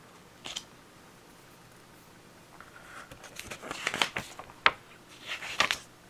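Pages of a paper booklet being handled and turned: a brief rustle about half a second in, then a run of crinkling rustles with a few sharp page flicks through the second half.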